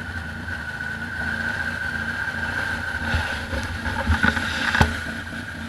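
ATV engine running steadily, with a few sharp knocks about three to five seconds in.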